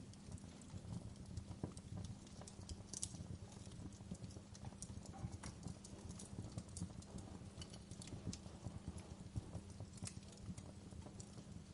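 Fireplace fire crackling: frequent small, sharp crackles scattered irregularly over a faint, steady low rumble.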